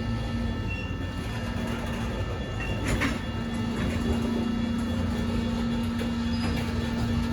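Freight train rolling through a grade crossing, a steady rumble of cars on the rails with a sharp metallic clank about three seconds in and a steady tone that sets in just after it.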